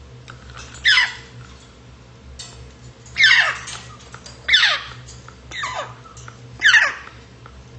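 Grey parrot giving a series of short calls, each sweeping steeply down in pitch, about five in all at uneven intervals.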